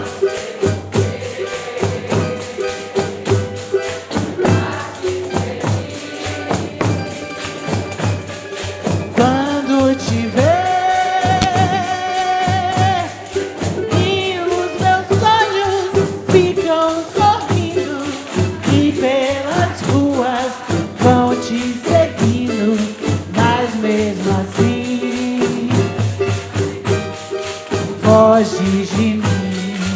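Live music: an ensemble of pandeiros (Brazilian frame drums with jingles) playing a dense, fast rhythm, with singing voices over it from about nine seconds in.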